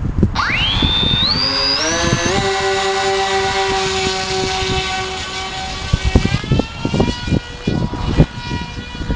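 Twin 450T-size brushless electric motors of an RC Twinjet spooling up in steps to a high, steady whine, their propellers turning. The pitch shifts slightly about six seconds in. Wind gusts buffet the microphone through the second half.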